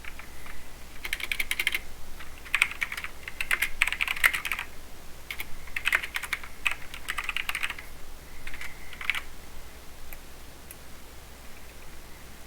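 Mechanical keyboard with Cherry MX Silver linear speed switches being typed on in quick bursts of keystrokes, then only a few scattered keypresses near the end.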